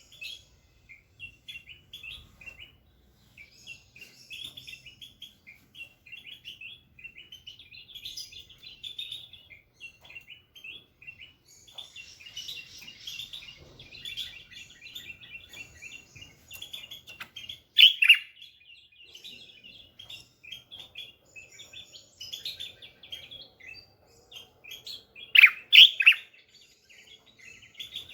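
Bulbuls singing: a rapid, continuous stream of high chirps and twitters. Two louder calls stand out, one about two-thirds of the way through and a double call near the end.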